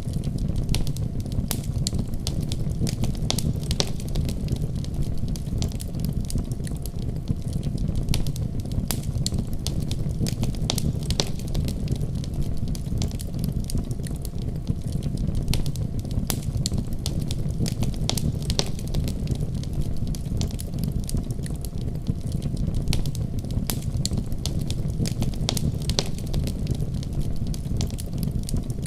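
Wood fire burning in a fireplace: a steady low rumble of flames with many small sharp crackles and pops scattered throughout.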